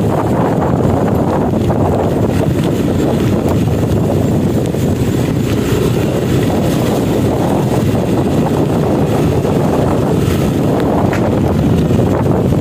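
Steady wind buffeting the microphone on a moving Yamaha NMAX 155 scooter, with the scooter's engine running underneath.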